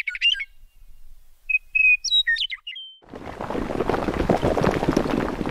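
Songbird chirping in two short runs of song. About three seconds in, a dense crackling, crumbling noise of ground cracking apart starts up and keeps going.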